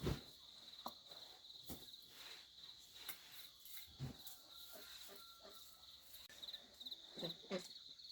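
Crickets chirping in a steady, rapid, high-pitched trill, with scattered knocks and thumps over it, the loudest right at the start.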